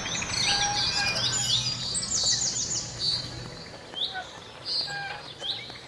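Birds chirping, with many short high chirps overlapping. A faint low hum runs under them and fades out about halfway through.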